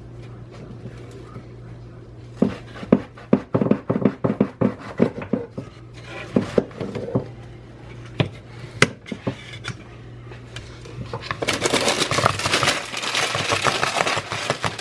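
Kitchen clatter: a quick run of sharp taps and clinks of dishes and utensils for a few seconds, a few more later, then a steady rushing hiss from near the end, all over a low steady hum.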